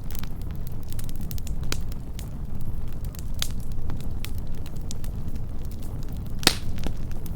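Wood campfire burning close to the microphone: a steady low roar with scattered sharp crackles and pops, and one louder pop near the end.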